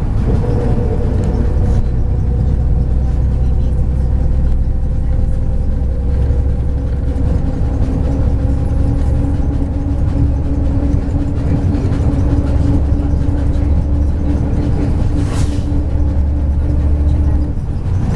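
MAZ-103 city bus under way, heard from inside the cabin: a steady low engine and road rumble with a faint engine whine that climbs slowly as the bus gathers speed, then drops away near the end. A brief sharp noise cuts through about three-quarters of the way in.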